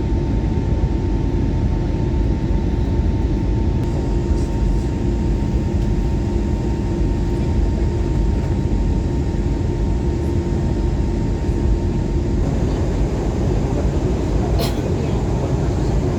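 Steady low rumble of cabin noise inside an Airbus A321neo, with two faint steady whining tones that stop about three-quarters of the way through. A single short click comes near the end.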